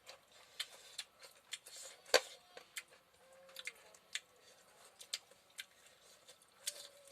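Close-up eating sounds: irregular sharp, wet mouth clicks and smacks from chewing, a few a second, one louder click about two seconds in. Two faint, brief wavering tones sound in the background, about halfway through and near the end.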